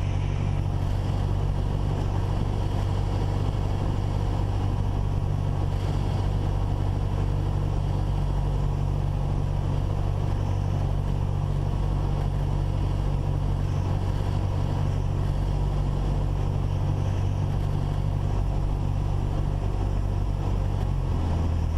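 Cessna 172's four-cylinder Lycoming engine and propeller droning steadily at reduced power on final approach, heard from inside the cabin along with wind noise. The engine note drops a little near the end as power comes off for the landing.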